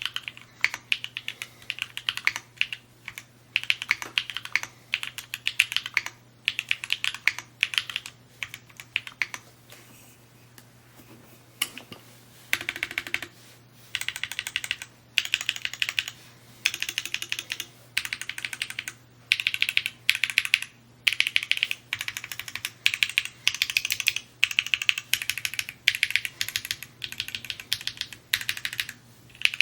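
Typing on a Mode Encore 2 custom mechanical keyboard: quick runs of key clacks in bursts, with a pause of about two seconds about a third of the way in. A faint steady low hum sits under it.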